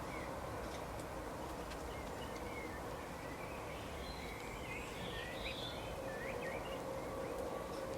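Small songbirds chirping and twittering in quick short calls, busiest in the middle, over a steady outdoor background with a faint steady hum.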